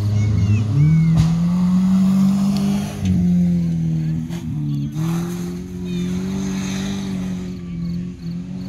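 Engines of old junk race cars revving hard on a muddy dirt track; the engine note climbs about a second in and then holds high, dipping a few times, with a few knocks around the middle.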